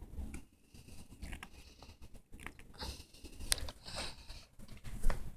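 Snow crunching: irregular crunches and small clicks, soft and scattered, with a few sharper crackles in the second half.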